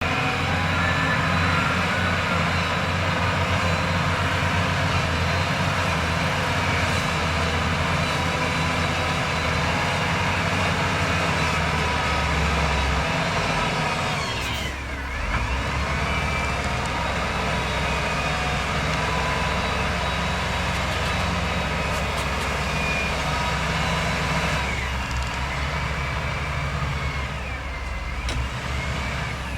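Heavy earthmoving machinery running: diesel engines working with a steady drone, dipping briefly about halfway through as engine pitch sweeps down and back up, and sweeping again near the end.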